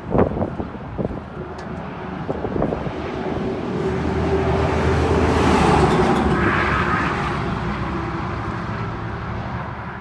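Engine noise of a passing vehicle, swelling to its loudest about six seconds in and then fading.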